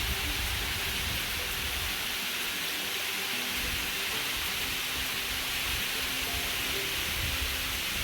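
Steady rush of a waterfall's falling water, with wind buffeting the microphone.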